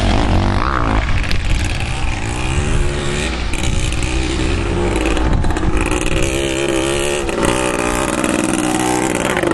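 Motocross dirt bike engine revving, its pitch rising and falling as the rider opens and closes the throttle.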